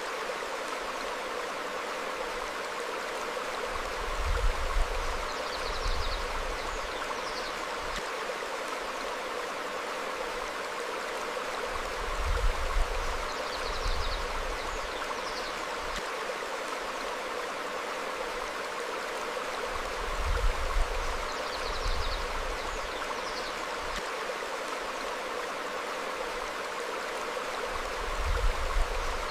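Stream flowing steadily over rocks, an even rushing of water. A few short, faint, high bird chirps and low rumbling swells come back about every eight seconds.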